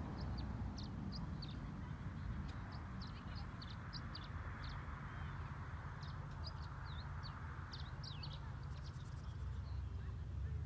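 Birds chirping: many short, high chirps in quick succession, over a low steady rumble.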